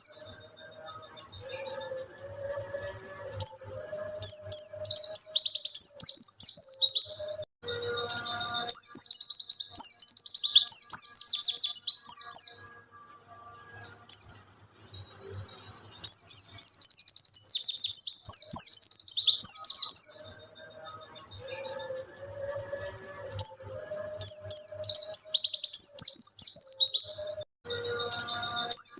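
A white-eye (pleci) sings rapid, high, warbling phrases in bursts of about four seconds, with short pauses between them. The same passage comes round again about every 13 seconds, as a looped recording does.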